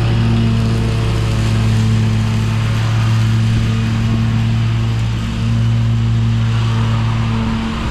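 Riding lawn mower engine running steadily while mowing and mulching leaves: a constant low hum with a brief dip in level about five seconds in.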